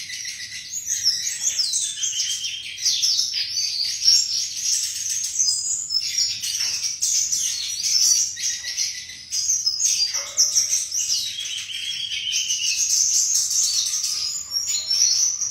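Flycatcher (sikatan) singing: a continuous, rapid run of varied high chirps, trills and short whistled glides.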